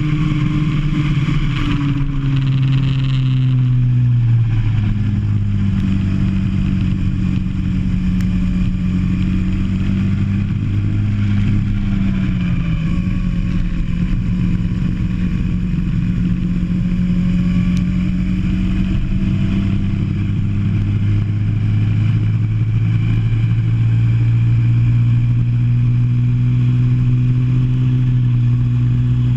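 Go-kart engine heard from the onboard camera, running hard; its pitch drops about four seconds in, then holds fairly steady with small rises and falls as the throttle changes.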